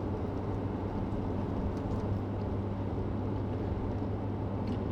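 Car interior road noise while driving: steady tyre and engine drone with a low hum.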